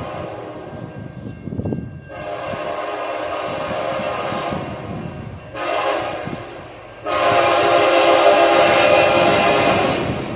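Freight locomotive's multi-note air horn on CN train M396: a long blast, a short blast, then a louder long blast near the end, in the rhythm of a grade-crossing signal. The train's rumble runs underneath.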